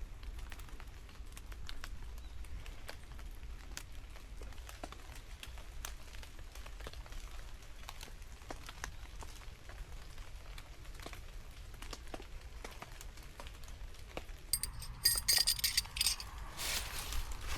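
Rain in the forest: scattered drops ticking over a low steady rumble. About fifteen seconds in, louder irregular rustling and crinkling starts, as of material being handled.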